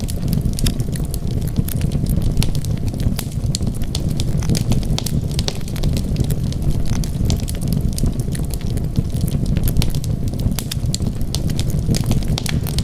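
Wood fire burning, with many small irregular crackles and pops over a steady low rumble.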